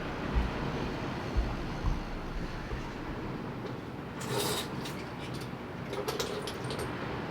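Seashells clicking and clattering as they are picked up off the ground, in a short cluster about four seconds in and a few more clicks around six seconds, over steady wind and surf with low wind buffeting on the microphone early on.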